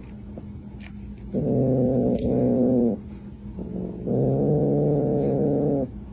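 A domestic cat giving long, low, drawn-out yowls, two of them, each lasting over a second.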